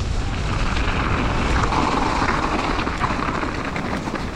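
Steady rushing noise of wind on an action camera's microphone, mixed with the tyre and trail noise of a mountain bike being ridden downhill.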